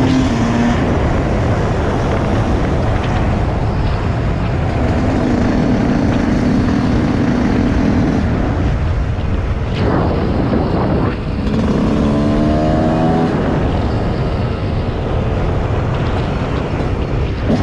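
Motorcycle engine running while riding, over a steady rushing noise. The engine note holds steady, then climbs as it revs up about two-thirds of the way in.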